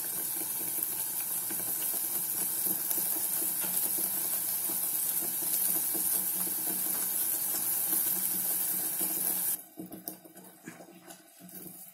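Wet ground coconut, onion, ginger, garlic and green chilli paste sizzling steadily in hot oil in a pressure cooker, a hiss that stops abruptly about nine and a half seconds in.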